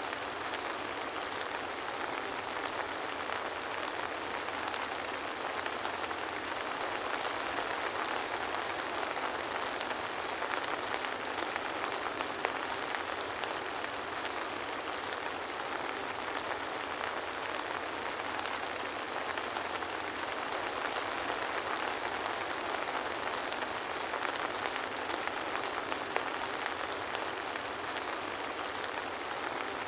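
Soft rain falling steadily: an even hiss of many drops, with faint single drop ticks scattered through it.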